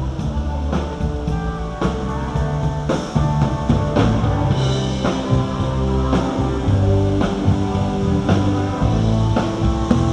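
Live rock band playing without vocals: guitar, bass and drum kit, with low notes held under repeated drum hits.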